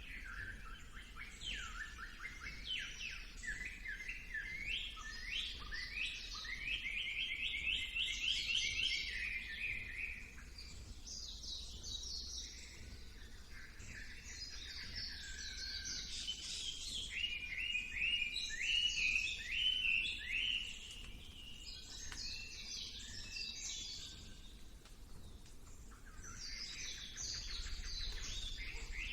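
Songbirds singing: long phrases of fast, high chirps, each note sliding downward, broken by short pauses about ten seconds in, about twenty-one seconds in and again near the end.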